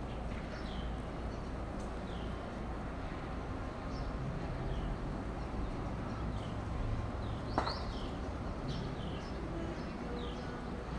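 A songbird chirping over and over in short, downward-sliding chirps, above a steady low background rumble. A single sharp click about seven and a half seconds in.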